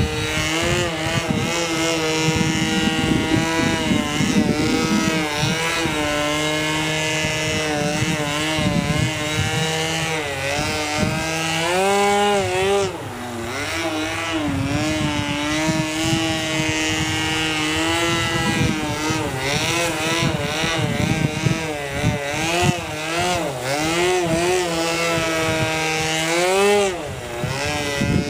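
Two-stroke O.S. .46AX glow engine of an RC airplane turning a 12x4 propeller in flight. Its pitch wavers up and down as the throttle changes and the plane passes, dropping about halfway through and again near the end. Wind rumbles on the microphone underneath.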